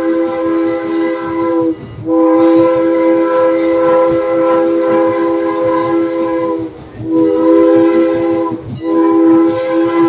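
Steam locomotive whistle blowing loud, long blasts of several notes at once. There are short breaks about two seconds in, near seven seconds and near nine seconds.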